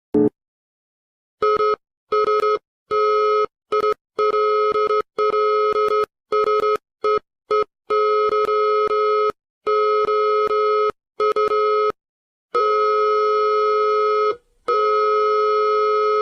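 A steady electronic tone, like a telephone dial tone, that stutters on and off irregularly with abrupt cuts to dead silence. Toward the end it holds for about two seconds at a time.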